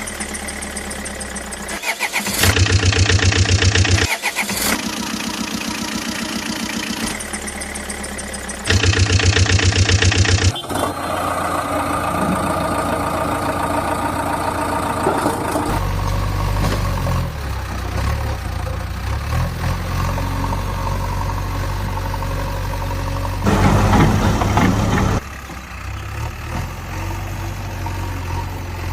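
Vehicle engine sounds in changing stretches: starting, running and idling, with several louder pulsing stretches in between.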